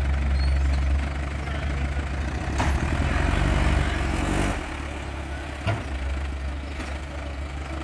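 Heavy diesel engine of a construction machine running steadily, working harder and louder for about two seconds from around two and a half seconds in, then settling back; a short knock about five and a half seconds in.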